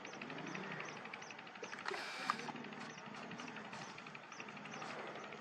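Outdoor field recording: a steady series of short, high chirps, two or three a second, over a low background murmur, with a louder rustling burst about two seconds in.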